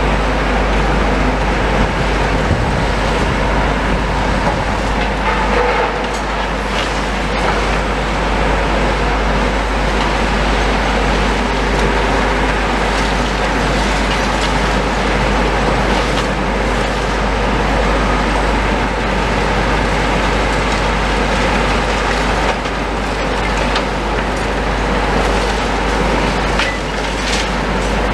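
Demolition machinery running steadily, a dense constant mechanical noise with a deep rumble, broken by a few faint knocks of material.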